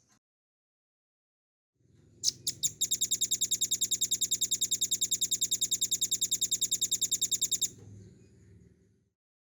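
Velvet-fronted nuthatch singing: a few separate high notes about two seconds in, then a long, even, rapid trill of about ten notes a second that lasts some five seconds and stops abruptly.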